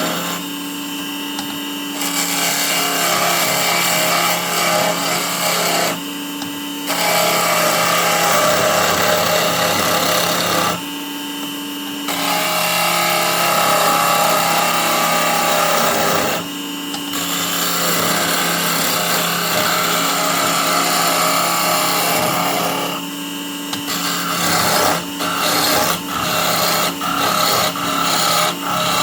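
Small benchtop wood lathe running with a tool held against the spinning wood: a steady motor hum under a rough scraping that breaks off for about a second five times, then comes in quick short touches near the end.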